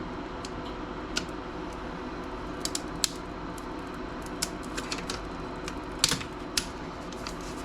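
Scattered small clicks and taps of laptop display parts being handled and pried apart, with the sharpest clicks about three and six seconds in, over a steady low hum.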